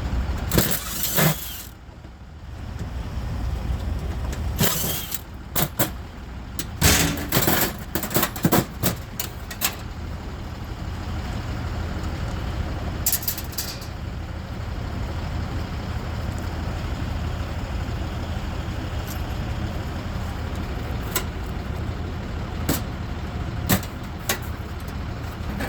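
Steady low rumble of an idling vehicle engine, with scattered sharp metal knocks and clanks from scrap being handled and cut apart, and a short hiss about thirteen seconds in.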